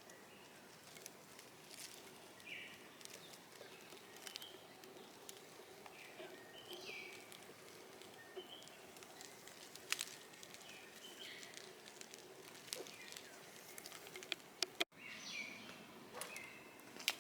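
Faint outdoor ambience of birds chirping now and then in short calls, with scattered light clicks and a faint steady hum underneath.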